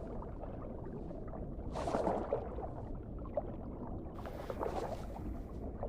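Underwater ambience: a steady low water rumble with fine crackling, and two swells of rushing, hissing noise partway through.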